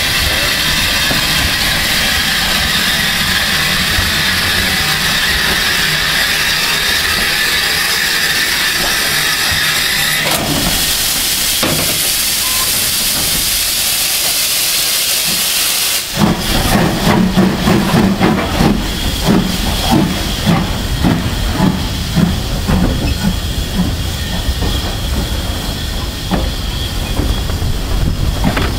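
Steam locomotive hissing steam steadily, with a louder, sharper hiss of escaping steam about ten seconds in. About sixteen seconds in it starts to chuff, its exhaust beating rhythmically as it pulls away.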